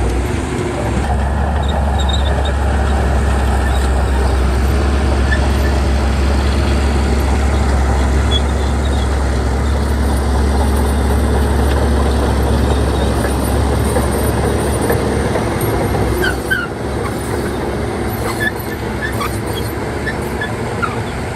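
Heavy diesel engine of construction machinery running steadily with a deep low rumble that eases off about sixteen seconds in, with brief faint high squeaks over it.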